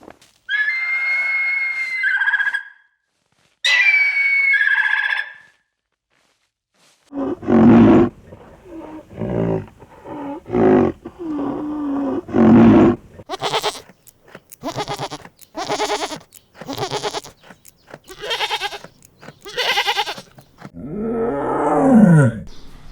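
A series of animal calls: two long high-pitched calls early on, then after a pause a run of shorter, lower calls, then harsh bursts about one a second, and near the end a call that falls in pitch.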